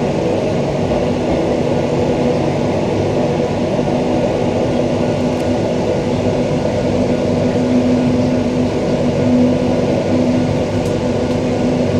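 Interior running noise of a Queensland Rail EMU electric train car under way: even wheel and motor noise with a steady hum.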